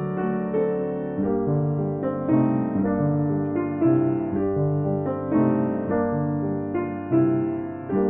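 Slow, gentle solo piano music: sustained chords and melody notes, a new chord every second or so.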